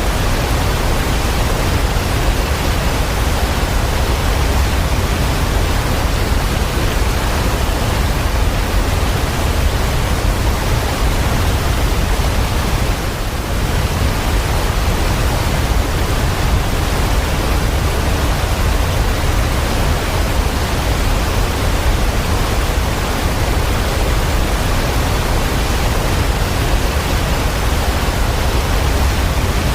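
Steady, dense rushing water noise with a strong low rumble, dipping slightly for a moment about 13 seconds in.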